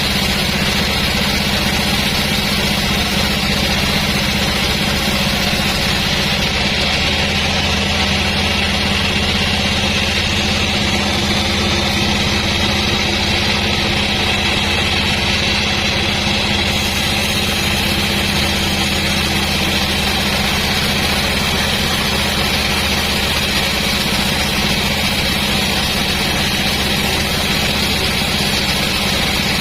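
Sawmill machinery running steadily, a constant engine-like hum with no rise or fall.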